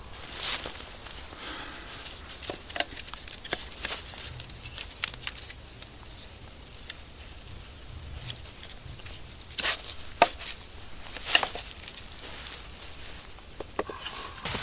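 Dry leaves and twigs rustling and crackling as they are handled or stepped on, with scattered small clicks and a few louder sharp snaps about two-thirds of the way through.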